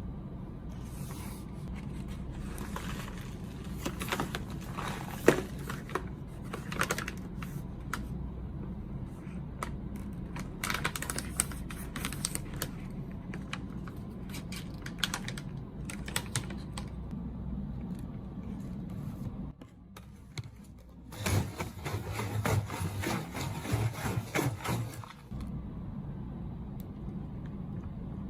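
Snack packaging being handled and opened: plastic wrapper crinkling and rustling in irregular bursts, with a dense stretch of crackling near the end, over a steady low hum.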